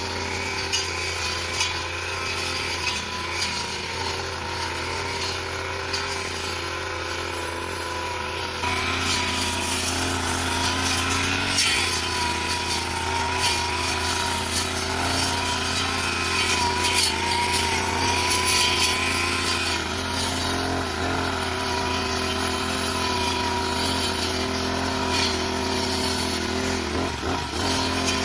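Small engine of a grass-cutting machine running steadily with a wavering whine, getting louder about nine seconds in.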